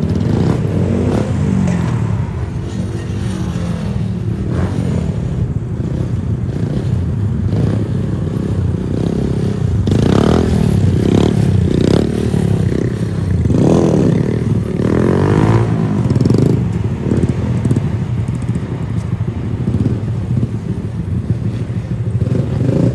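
Mini bike engines running, with several revs swelling and falling back roughly halfway through.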